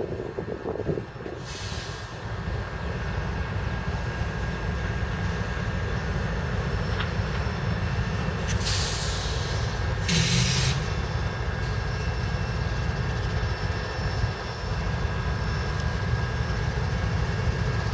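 CSX freight train's diesel locomotives approaching with a steady low engine rumble. Three short bursts of hiss come through, one near the start and two close together about halfway.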